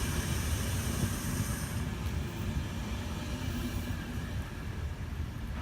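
A passing train's wheels running on the rails: a low rumble with a high hiss that cuts off about two seconds in, the rumble then slowly fading.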